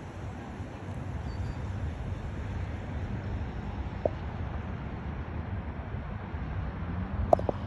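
Steady outdoor rumble of wind on the microphone, with a single sharp knock near the end.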